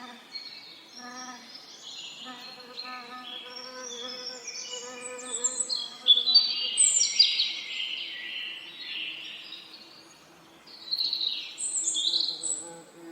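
Songbirds singing in quick, twittering phrases, with bees buzzing close by in a low, steady hum that comes and goes. The birdsong is loudest about six seconds in and again near the end.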